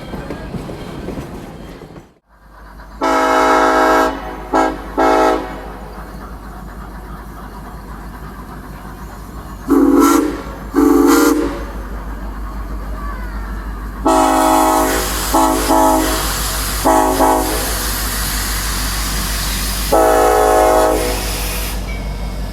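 Locomotive horn blowing a series of long and short blasts over a steady low engine rumble. A hissing sets in about halfway through.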